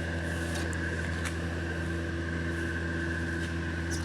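Steady mechanical hum: an even low drone with a faint, steady higher whine above it, unchanging throughout.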